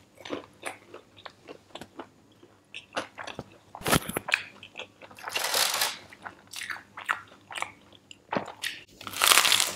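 Crunchy bites and chewing of a Burger King Crunchy Chicken Volcano's fried shell, crackling in many short snaps. There is a sharp crunch about four seconds in, and louder crunching spells around the middle and near the end.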